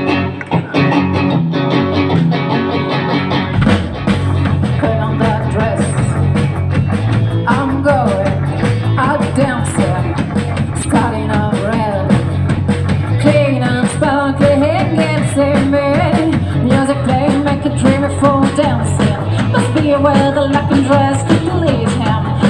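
Rock band playing: electric guitar at first, then drums and bass coming in about four seconds in, with a melody line running over them from about eight seconds in.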